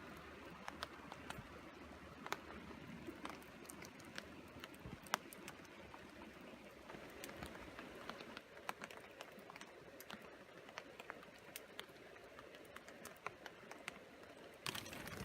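Raindrops dripping and pattering on a tarp: irregular sharp taps over a steady hiss of rain.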